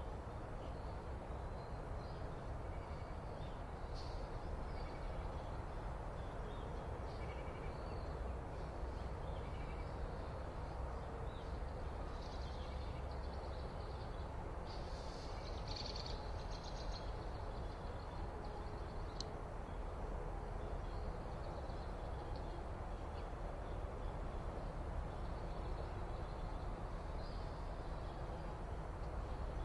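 Wild birds calling now and then over a steady low outdoor rumble and hiss, with a short, harsher run of rapid calls about halfway through.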